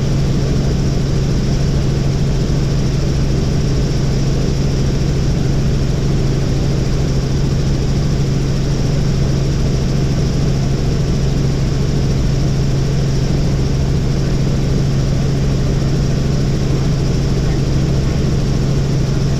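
Helicopter in flight, its engine and rotors making a steady drone with a strong low hum that holds constant throughout.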